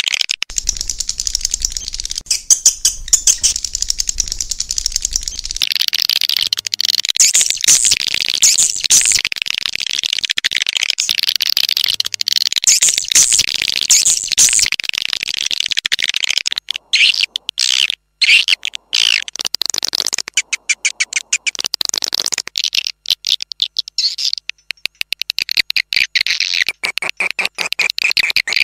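Edible-nest swiftlet calls: dense, rapid twittering chirps and clicking trills, the kind of swiftlet lure sound played in swiftlet houses to attract the birds. The flock of chirps drops out briefly a couple of times past the middle.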